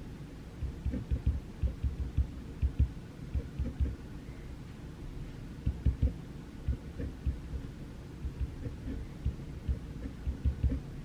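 Pencil writing on paper at a desk: irregular runs of soft, low knocks carried through the desk, with faint light scratching over a steady low background hiss.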